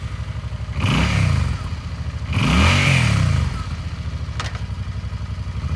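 2019 Suzuki Boulevard C50's 800cc V-twin idling in steady pulses, revved twice: a short blip about a second in, then a longer, louder rev about two and a half seconds in, each falling back to idle. A single sharp click comes a little past four seconds.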